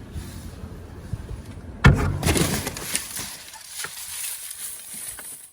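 Rummaging through trash: a sharp knock about two seconds in, then a second or so of rustling and crackling, with a few small clatters after.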